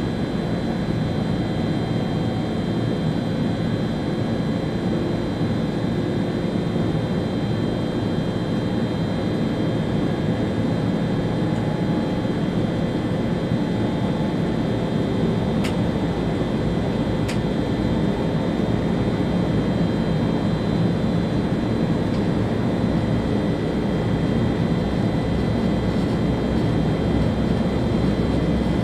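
Steady running noise inside the driver's cab of an ÖBB Railjet high-speed train at speed: a constant rumble of wheels on rail, with a few thin steady whining tones above it. There are two sharp clicks a bit more than halfway through, about a second and a half apart.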